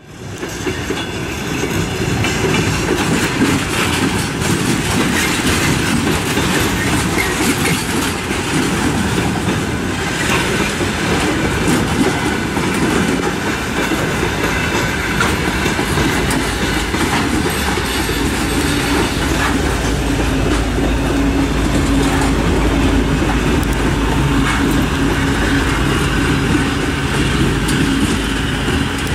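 A track-laying work train's loaded flatcars roll past with a clickety-clack over the rail joints. About two-thirds of the way in, the 2M62U twin-section diesel locomotive's two-stroke engines come in as a steady low drone that grows stronger.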